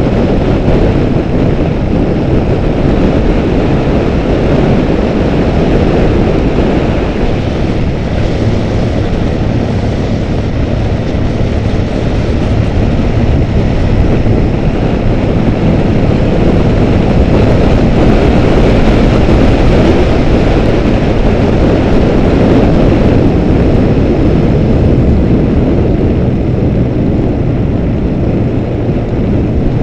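Motorcycle engine running steadily and loudly while the bike is under way.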